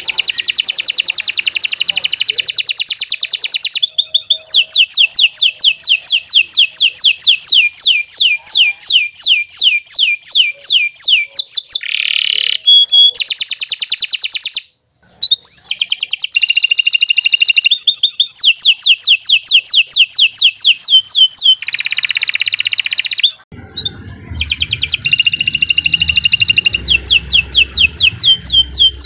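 Domestic canary singing a long, loud song of fast trills and rolls, one repeated note after another at a high pitch, with short pauses between phrases. A low rumble comes in under the song for the last few seconds.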